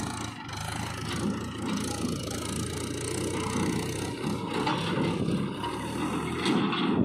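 Heavy diesel engine running steadily, with a few light knocks near the end.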